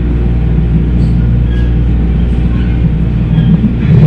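MARTA rapid-transit train running at speed, heard from inside the railcar: a steady low rumble of the wheels on the rails with a constant low motor hum.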